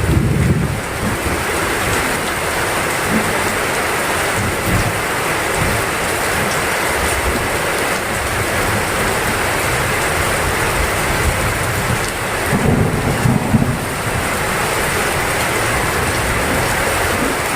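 Heavy rain falling steadily, with two brief low rumbles of thunder: one at the very start and one about 13 seconds in.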